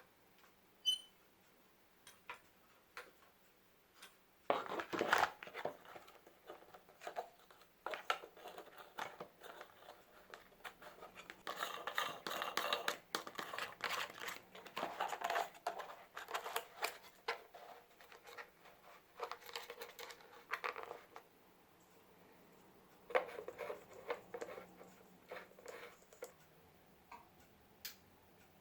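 Close handling sounds: irregular bursts of rustling and scraping mixed with sharp clicks, the busiest stretch about halfway through, with a short burst again near the end.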